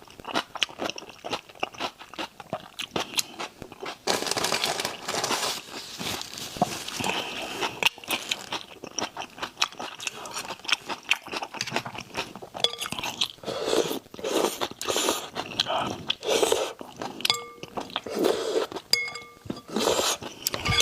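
Close-up eating sounds of spicy raw shrimp mixed with noodles: irregular crunching, biting and wet chewing that never stops, with denser noisy stretches in between.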